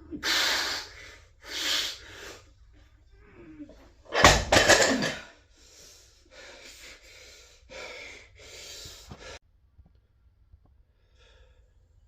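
A weightlifter's forceful, straining breaths and grunts during heavy chest lifting: a series of hard exhalations, the loudest and longest about four seconds in, stopping abruptly after about nine seconds.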